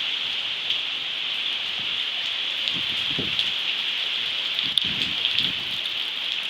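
Heavy rain pouring steadily, a constant hiss, with a few sharper taps of drops, the clearest nearly five seconds in.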